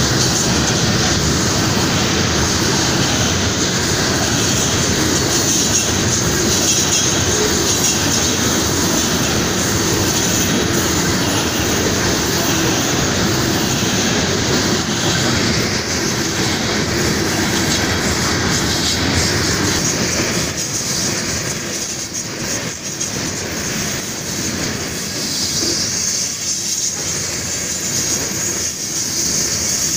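Covered hopper cars of a freight grain train rolling past close by: a steady rumble of steel wheels on rail with a high squeal from the wheels, easing slightly in the last third.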